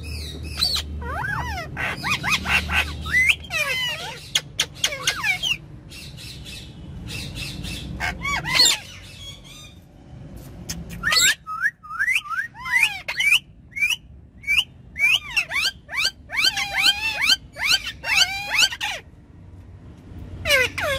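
Indian ringneck parrots squawking and chattering in a rapid string of short calls that glide up and down in pitch, with a pause of about two seconds near the middle. A low hum sits under the calls for the first half.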